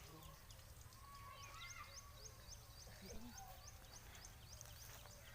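Quiet outdoor background with a bird chirping repeatedly, a short high chirp about three times a second, over a faint steady low hum.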